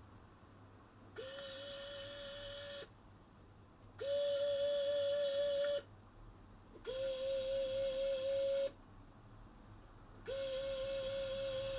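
Four steady held tones, all at the same mid pitch, each lasting nearly two seconds with short pauses between them.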